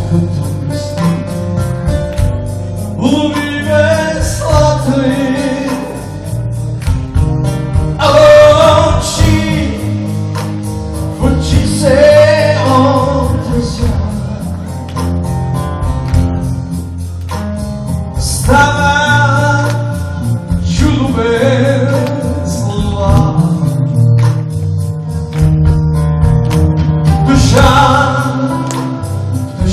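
Live rock band playing with a male lead singer and guitar.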